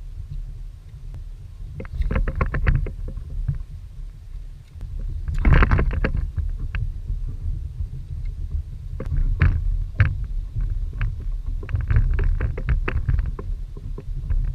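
Water splashing and slapping against a kayak in bursts every few seconds, over a steady low rumble of strong wind on the microphone.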